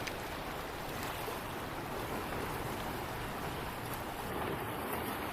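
Sea waves washing steadily against a rocky shore, heard as an even rushing noise with no distinct breaks.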